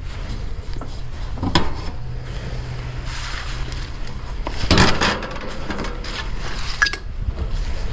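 A few knocks and a clatter of hard objects being handled over a steady low hum, the loudest clatter about five seconds in.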